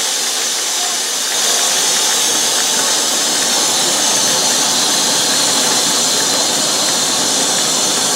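Steam locomotive letting off steam: a loud, steady hiss that steps up a little about a second and a half in.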